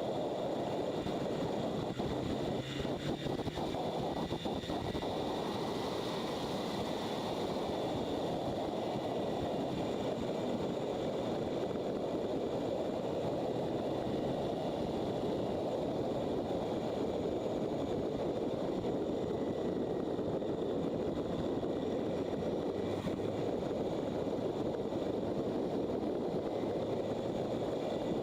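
Motorcycle riding at a steady speed: a constant rush of wind over the microphone with the engine running underneath.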